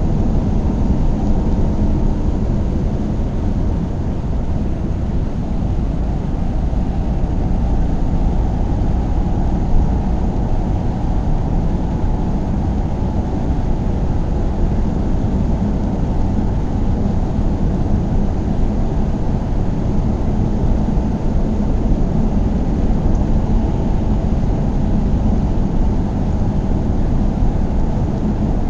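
A car driving at a steady speed: even engine and road noise with no revving or gear changes.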